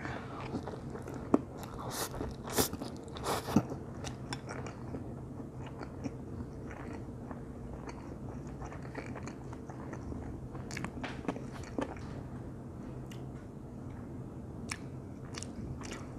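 Close-up chewing of a big mouthful of stir-fried instant noodles, with a cluster of sharp wet mouth smacks in the first few seconds, then quieter chewing with scattered clicks. A low steady hum sits underneath.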